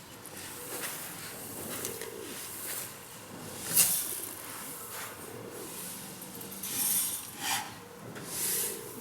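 Pigeons cooing softly, a low call repeating about once a second, with short rustling noises between; the loudest rustle comes about four seconds in.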